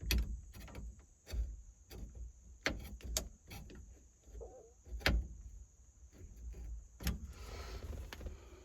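Irregular sharp clicks and knocks, several of them a second or so apart, as a replacement turn signal switch is pressed and worked into a tight fit in a 1971 Chevy C10's steering column.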